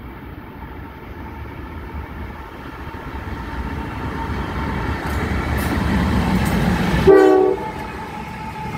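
Norfolk Southern diesel locomotives approaching and passing at the head of an intermodal train, their engine rumble and wheel noise growing steadily louder. About seven seconds in, the locomotive horn sounds one short blast, the loudest moment.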